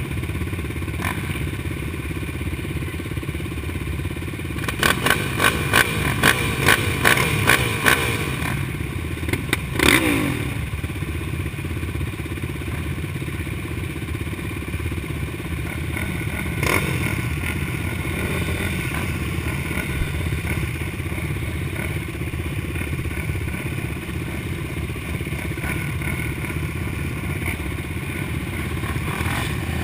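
Motocross bike engine running steadily, with a quick series of clattering knocks about five seconds in and a loud burst with a falling pitch about ten seconds in.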